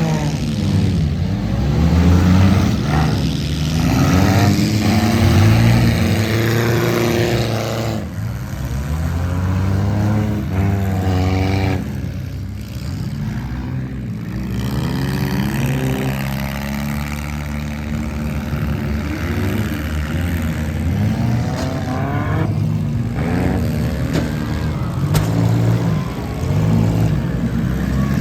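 Gutted stock cars in a demolition derby, several engines revving up and easing off over and over.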